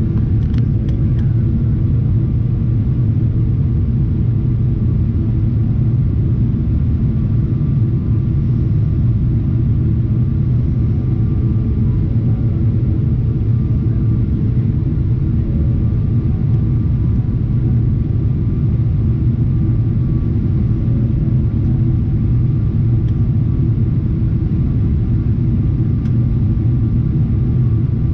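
Steady low rumble of a Boeing 777-300ER's GE90 engines and airflow in flight, with faint steady hums above it, unchanging throughout.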